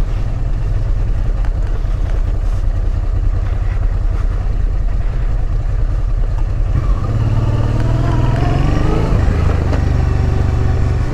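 Honda Transalp 650's V-twin engine running as the motorcycle rides off, with the engine note rising as it accelerates about seven to nine seconds in, then settling.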